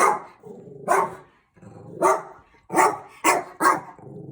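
Dog barking, about six sharp barks in an irregular run.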